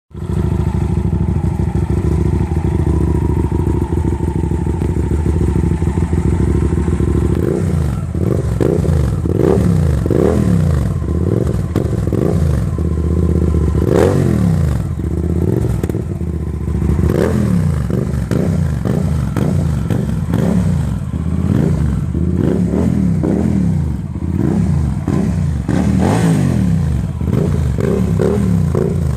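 Naza Blade 650 motorcycle engine breathing through a car muffler: it idles steadily at first, then from about seven seconds in it is revved again and again in short throttle blips, the pitch rising and falling with each one.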